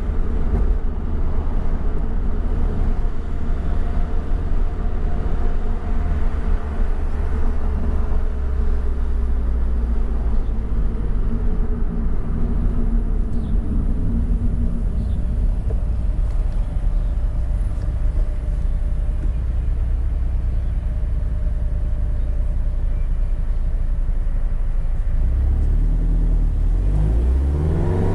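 Flat-four engine of a sports car with aftermarket exhaust work, running under way with steady road rumble. The engine note falls slowly as the car slows around the middle, then rises near the end as it accelerates.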